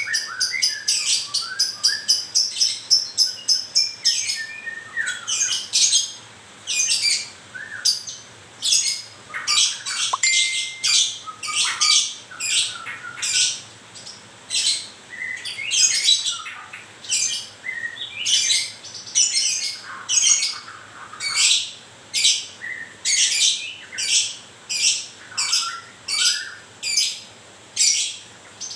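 White-rumped shama (murai batu) calling in a long run of short, sharp chirps and song phrases, about one or two a second, faster and denser in the first few seconds. The bird is moulting.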